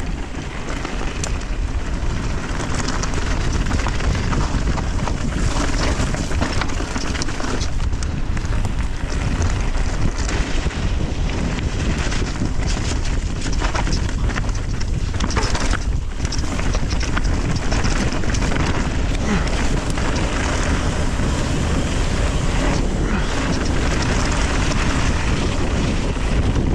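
Wind buffeting a camera microphone during a fast mountain bike descent, mixed with tyre noise on the dirt trail and scattered knocks from the bike over bumps.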